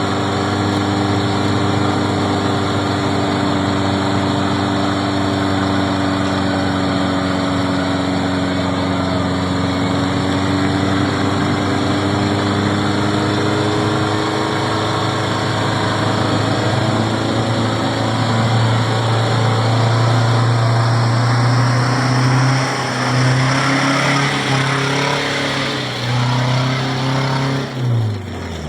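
Vehicle engine running steadily, picking up a little past the middle and then dropping sharply in pitch near the end as it slows.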